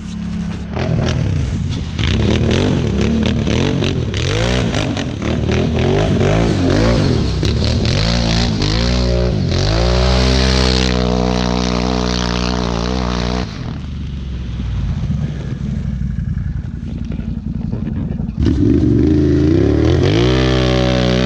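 Can-Am 1000 ATV's V-twin engine through an aftermarket RJWC exhaust, revving and accelerating hard. Its pitch swings up and down repeatedly, climbs to a held high rev about ten seconds in, then drops off abruptly before coming back loud near the end.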